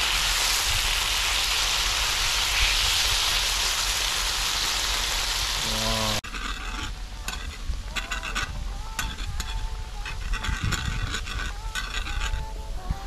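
Tofu sizzling as it fries in a hot pan: a steady, loud sizzle that cuts off abruptly about six seconds in. After the cut come quieter clicks and clinks with a few short pitched tones.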